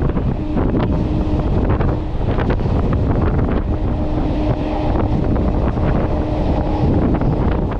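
Electric multiple-unit local train running at speed, a loud low rumble with irregular clacks from the wheels on the track and wind buffeting the microphone. A steady hum comes and goes three times.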